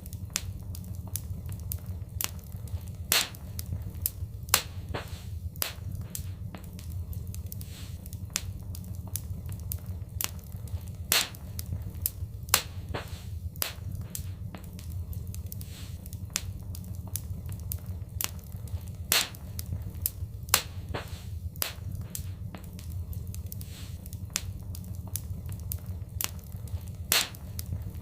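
Fireplace fire crackling: irregular sharp pops, a few of them louder, over a steady low rumble of the flames.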